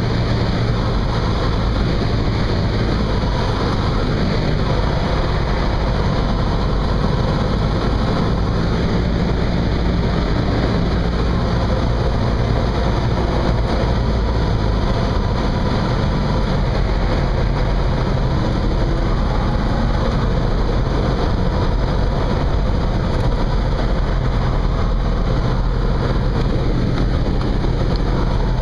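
Cessna 172's piston engine and propeller droning steadily, with small changes in pitch now and then.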